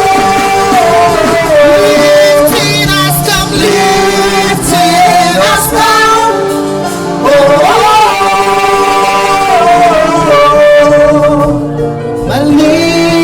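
Church worship music: a singer holding long, wavering notes over an instrumental backing.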